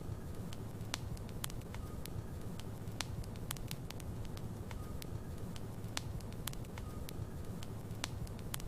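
Logs burning in a fireplace: a steady low rumble of flame with sharp, irregular crackles and pops from the wood.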